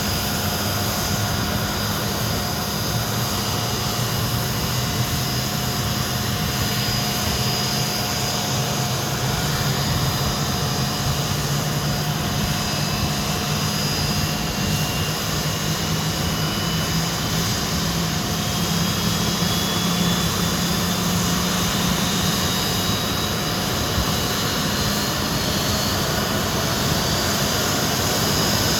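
Rolls-Royce Spey turbofan jet engines of a Hawker Siddeley Nimrod running on the ground with a steady roar and whine. About halfway through, one high whine starts to climb slowly in pitch, as the engine speed rises.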